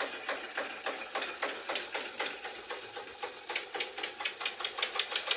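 Small electric motor and gears of a mini toy tractor running, with a steady rapid clicking at about four to six a second that quickens a little past the middle and evens out near the end.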